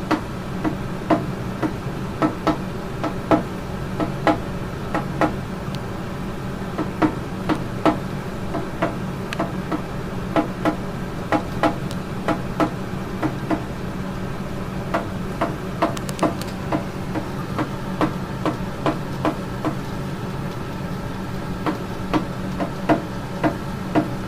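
Cockatiel pounding on a hard surface: a long run of sharp knocks, about one to two a second, uneven, with a couple of short pauses.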